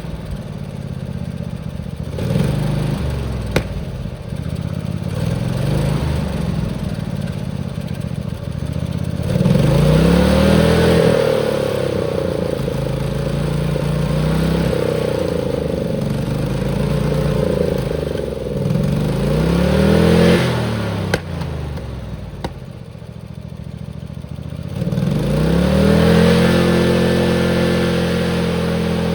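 Tractor engine run hard, revving up and falling back several times. There are high-rev surges near the middle and again near the end, with a brief drop in revs between them.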